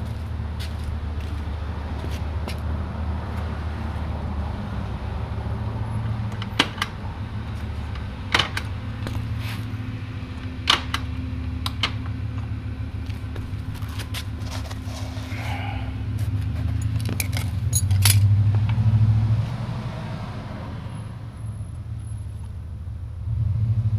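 Scattered metallic clicks and clinks of hand tools and small parts being handled during the shift lever repair, a few of them sharper, over a steady low rumble.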